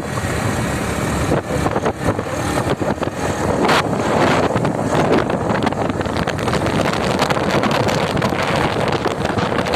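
Motorcycle ridden at speed on a highway: a steady rush of wind over the microphone mixed with engine and road noise.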